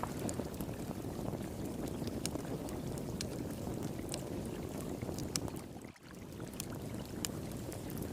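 Wood fire in a fire pit crackling with frequent sharp pops and snaps, over the steady rush of flowing water. The sound briefly drops away about six seconds in, then comes back.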